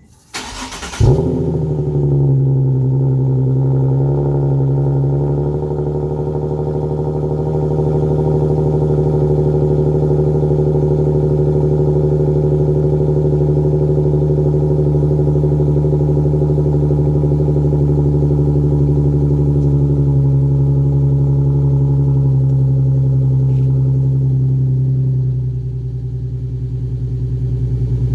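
Nissan 370Z's 3.7-litre V6 with the mufflers deleted, cold-started: it cranks for about a second, catches with a loud flare, then runs at a high, steady cold idle. Near the end the idle drops lower and quieter as it settles down.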